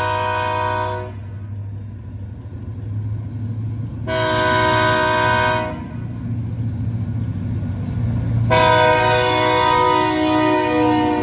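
Locomotive air horn sounding a chord in a long, short, long pattern, as used for a grade-crossing signal: one blast ends about a second in, a short blast follows, then a long one near the end, its pitch dropping slightly as the train passes. EMD diesel locomotive engines rumble underneath.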